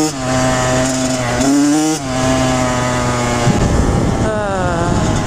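Kawasaki KX100 two-stroke dirt bike engine revving up and dropping back several times while riding, with a patch of rough noise about three and a half seconds in.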